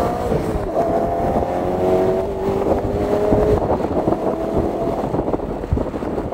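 2008 BMW E92 M3's 4.0-litre S65 V8, straight-piped, pulling hard under acceleration. Its pitch climbs, drops back at an upshift of the manual gearbox just after the start, and climbs again.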